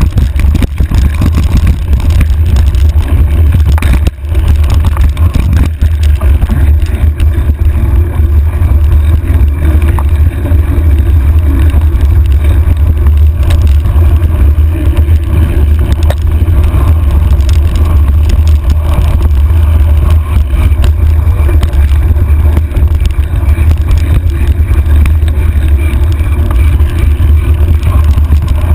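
Wind rumbling hard on the microphone of a handlebar-mounted camera on a mountain bike descending a dirt trail, with a steady low roar and small rattles from the bike over the rough ground. The roar drops out briefly about four seconds in.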